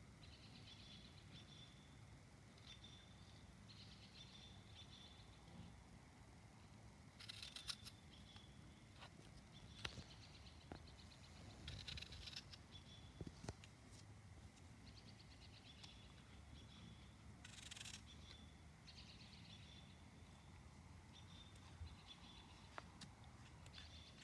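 Quiet rural ambience: a small bird singing faint, short high phrases over and over, with a few brief scratchy sounds and soft clicks.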